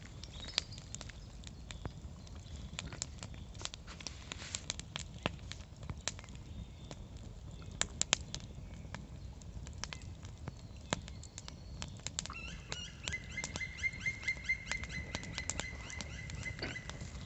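Campfire crackling, with irregular sharp pops throughout. Near the end a small bird sings a rapid high trill for about four seconds.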